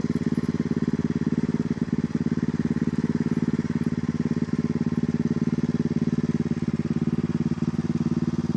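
An engine running steadily at an even speed, a constant pulsing hum.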